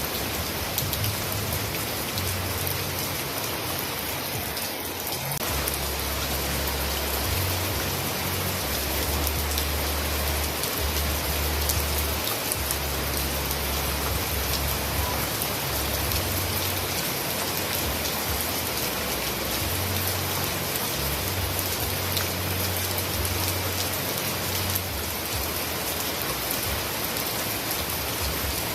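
Steady heavy rain with no thunder: a dense, even hiss of falling drops with fine individual drop ticks, and a low rumble that comes and goes underneath.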